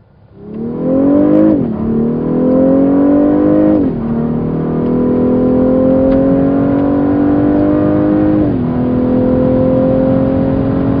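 Cadillac CTS twin-turbo V6 accelerating hard in track mode, heard in the cabin through electronic sound enhancement. The engine note rises through the gears, with three quick upshifts about 1.5, 4 and 8.5 seconds in.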